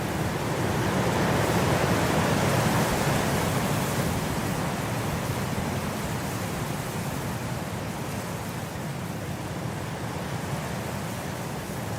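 Blizzard wind blowing as a steady rushing noise, swelling over the first few seconds and then slowly easing.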